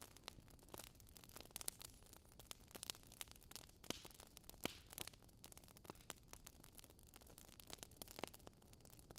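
Wood logs burning in a fireplace, crackling softly with irregular sharp pops over a faint hiss, a couple of louder pops near the middle.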